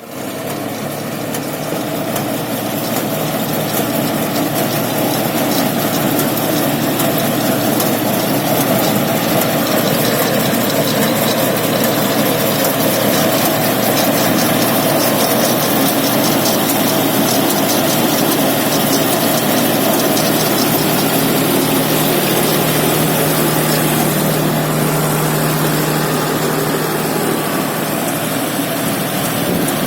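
Tractor engine running steadily with a tractor-mounted reaper working, a fast, even rattle over the engine sound. A steady low hum grows stronger about two-thirds of the way through.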